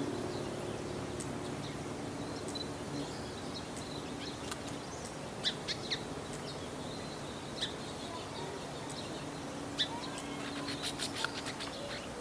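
Small birds chirping in short, high calls scattered throughout, with a quick run of chirps near the end, over a faint steady low hum.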